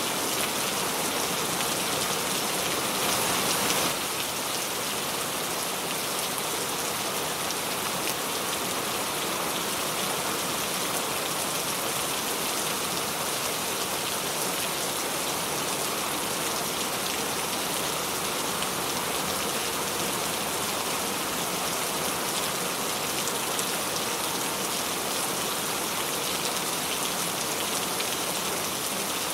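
Steady rain falling on a surface, an even hiss of many small drops, a little louder for the first few seconds and then constant.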